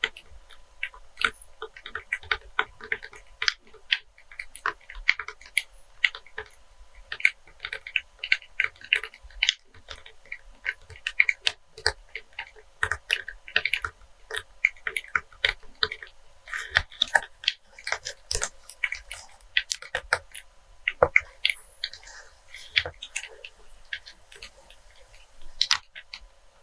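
Rapid, irregular tapping and crinkling on a pack of cleaning wipes.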